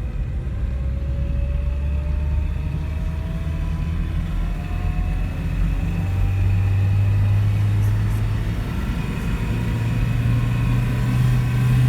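Car engine and drivetrain running while climbing a steep road, a steady low rumble with a faint whine that rises slowly in pitch; the engine note steps up about halfway through and again near the end.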